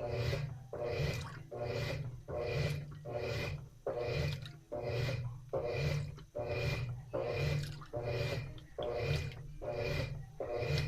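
Washing machine in its wash cycle: water sloshing in even, rhythmic swishes, a little more than one a second, as the wash action churns the load back and forth.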